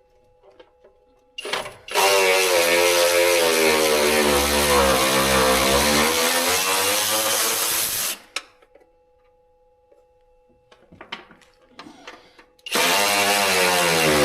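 A handheld power tool runs on the valve cover bolts of a Chevrolet engine. Its motor pitch sags and recovers through one run of about six seconds, and a second run starts near the end. Small clicks and taps come in the pauses between.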